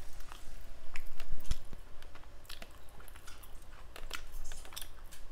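A person chewing food close to the microphone, with irregular mouth clicks and smacks.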